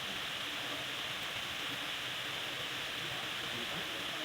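Waterfall: water falling steadily, an even hiss with no breaks.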